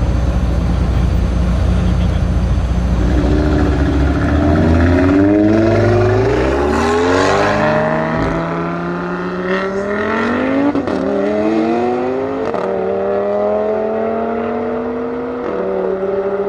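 McLaren 720S twin-turbo V8 with a Capristo exhaust accelerating hard: the engine note climbs through the revs, falls back sharply at each of about four upshifts, then climbs again. A deep low rumble dominates the first few seconds before the engine note rises.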